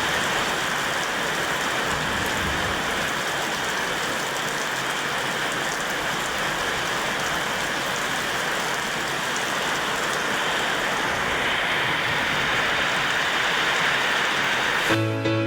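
Steady rain falling, a dense even hiss without a break. Music cuts in just before the end.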